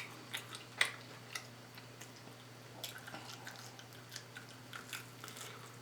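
A person chewing food close to the microphone: soft, scattered wet clicks and smacks from the mouth.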